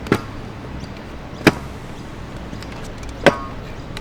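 Three sharp knocks of a stunt scooter striking concrete, spaced about one and a half seconds apart, the last one with a short metallic ring.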